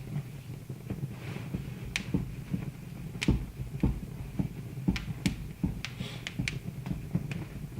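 Wood fire in a fireplace crackling, with irregular sharp pops over a low steady rumble. The loudest pops come about three and five seconds in, and there are a couple of brief soft hisses.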